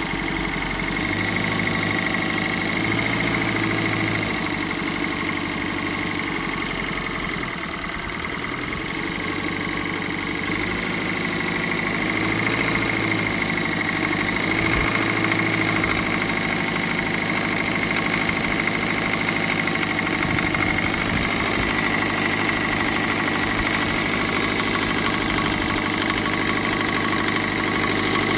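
Toyota Prius second-generation 1NZ-FXE 1.5-litre four-cylinder engine running in Drive with the brake held, with a knocking, rattling sound from the engine. The cause is unknown to the owner: new spark plugs, a new VVT-i valve and a new PCV valve have not cured it.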